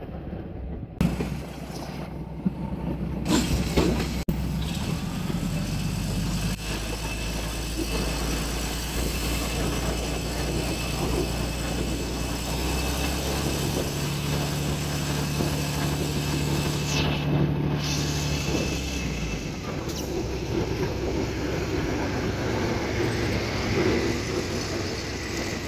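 Diesel-hauled passenger train rolling slowly through a station yard: a continuous rumble of wheels on track, with a few sharp knocks over rail joints and points in the first few seconds, heard from an open carriage door.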